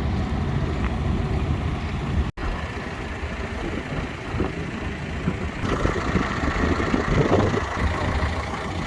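Engine idling with a steady low rumble; the sound drops out for an instant about two seconds in.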